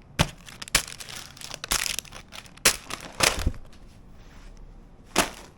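Irregular crinkling and crackling handling noise, a series of sharp crackles and rustles at uneven intervals.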